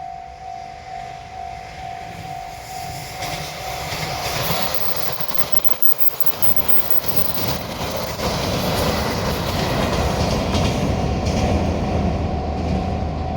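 Japanese level-crossing warning bell ringing its electronic "kan-kan", about two strikes a second. A JR Hokkaido Kamui limited express then rushes through the crossing with rolling wheel noise and rail clatter, growing louder from about three seconds in and loudest from about eight seconds on.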